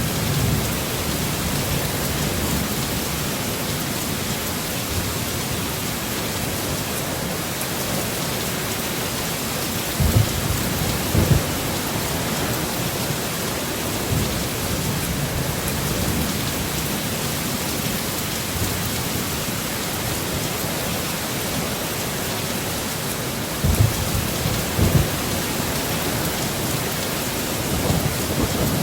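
Heavy rain falling steadily in a storm, with brief low rumbles of thunder in two clusters, about ten seconds in and again about twenty-four seconds in.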